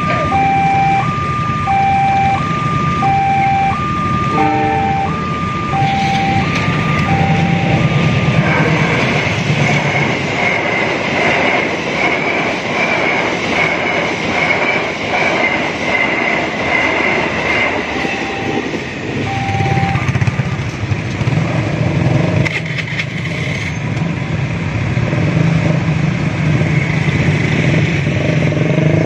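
Level-crossing warning alarm sounding two alternating tones, about one pair a second, for the first several seconds, as a passenger train runs through the crossing with loud wheel-and-rail noise and a high squealing tone. The train noise fades after about twenty seconds, leaving the low hum of idling motorcycle and car engines as the waiting traffic moves off.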